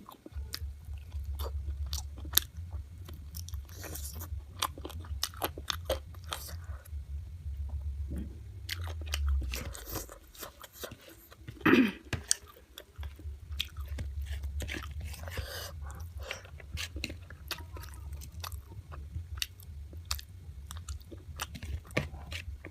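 Close-up chewing and biting of local chicken in gravy: wet mouth clicks and crunching bites, many short sharp sounds in an irregular stream, with one louder burst about halfway through.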